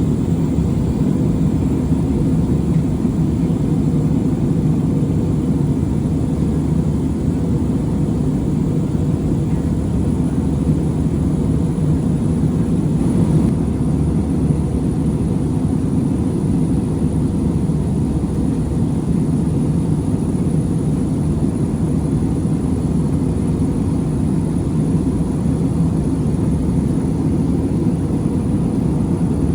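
Steady low drone of an airliner cabin in flight: constant engine and airflow noise, heaviest in the low range and unchanging throughout, with a faint brief knock about halfway through.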